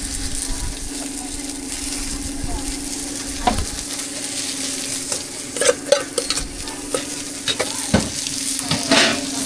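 Cakes frying with a steady sizzle over a constant low hum, with scattered sharp clicks and knocks of utensils against the pan, several close together about six seconds in and another near the end.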